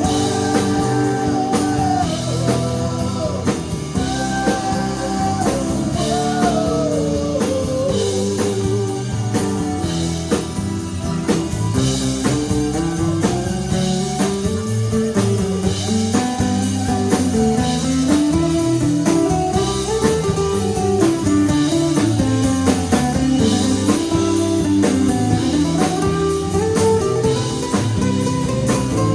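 Live blues-rock band playing an instrumental break: a lead guitar line wanders up and down over steady drums and bass.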